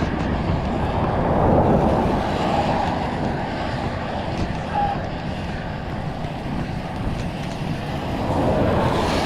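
Strong wind buffeting the microphone, a heavy, gusting low rush that swells about a second and a half in and again near the end.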